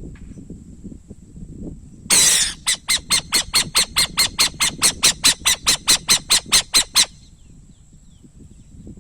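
Owl calling: one harsh screech about two seconds in, then a rapid series of about twenty short, rasping notes, roughly four a second, that stops abruptly about seven seconds in.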